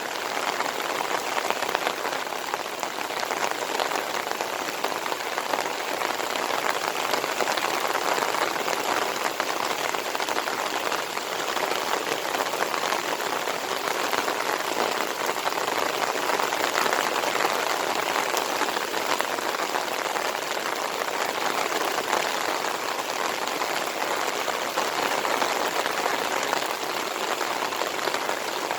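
Steady heavy monsoon rain, a dense even patter of drops falling on hard surfaces.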